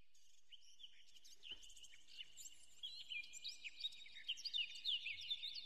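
Small birds chirping and twittering: many quick, high calls and short pitch glides, faint at first and growing denser and louder from about halfway.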